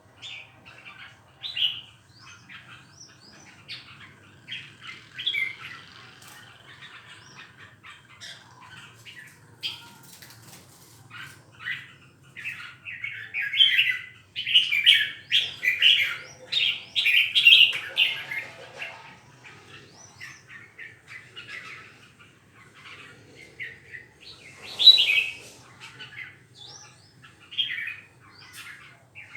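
Caged songbird singing in short, quick chirping phrases, busiest through the middle with a loud burst of song a little before the end.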